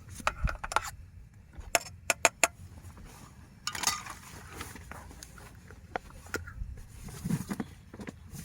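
Scattered sharp clicks and knocks of small hard objects being handled, with a quick run of three close together about two seconds in.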